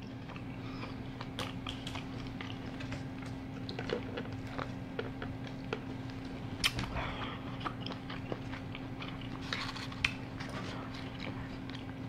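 A person chewing sauced boneless chicken wings, with wet mouth noises and scattered small clicks and knocks, over a steady low hum.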